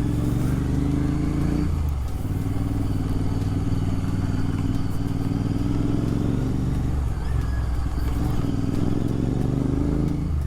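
Royal Enfield Continental GT 650's 648 cc parallel-twin engine through a Red Rooster Performance aftermarket exhaust, accelerating through the gears: the note rises, drops at a gear change about 2 s in, then climbs again with another change around 7 s.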